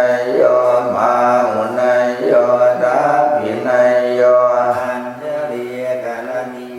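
Thai Buddhist tham wat chanting of Pali verses, voices held on a nearly level pitch, syllable after syllable without a break.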